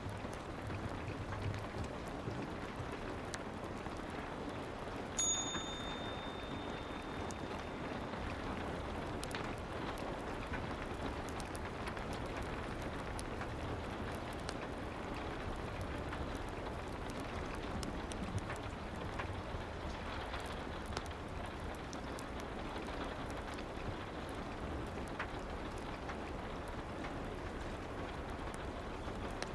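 Steady soft rain ambience with a fireplace's scattered small crackles. About five seconds in, a single high bell-like chime sounds and rings out over a few seconds: the pomodoro timer signalling the start of a work session.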